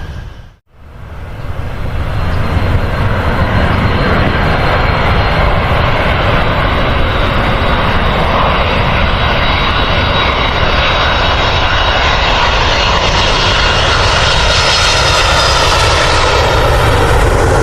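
Airliner engines running loud and steady. There is a brief break to silence just under a second in, and the high hiss grows over the last few seconds.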